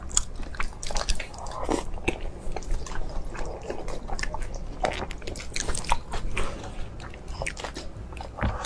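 Close-miked mukbang eating: steady chewing and biting, heard as many short, irregular wet clicks.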